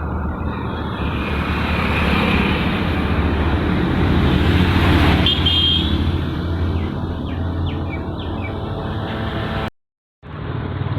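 Motorcycle engine running at riding speed with road and wind noise, heard from the moving bike. A short high-pitched tone sounds about halfway through, and the sound cuts out for about half a second near the end.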